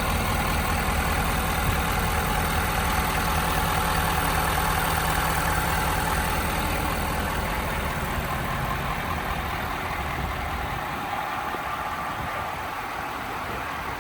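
Ford F-250 Super Duty pickup engine idling steadily, its low hum fading away after about ten seconds.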